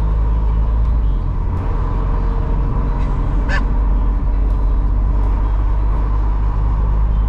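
Steady low road and engine rumble of a car driving, heard from inside the cabin, with one short high-pitched sound about three and a half seconds in.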